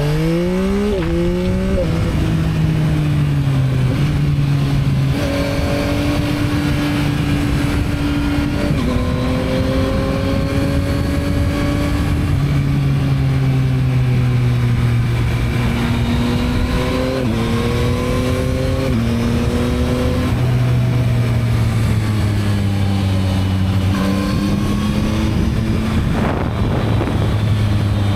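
2022 Yamaha MT-09's 890 cc inline-three engine on its stock exhaust, heard from on the bike while riding. It climbs quickly in pitch at the start, then runs at steadier revs that rise and dip with the throttle, under steady wind noise.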